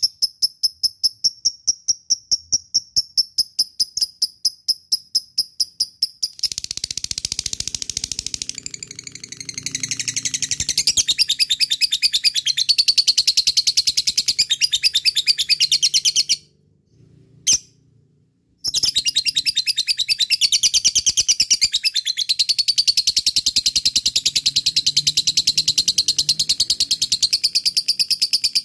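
Lovebird calling: a run of sharp high chips, about four a second, then long, fast chattering trills (the 'ngekek' call), broken by a pause of about two seconds midway before the chatter resumes.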